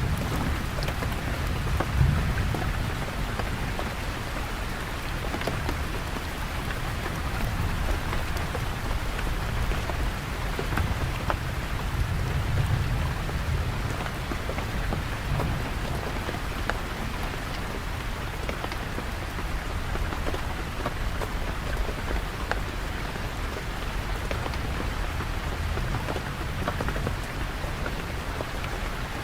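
Steady rain falling, with individual drops ticking. Low rumbles of thunder swell about two seconds in and again around twelve seconds.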